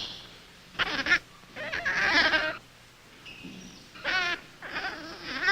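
Infant rhesus monkey calling in a series of about four high, wavering cries, the longest near the end.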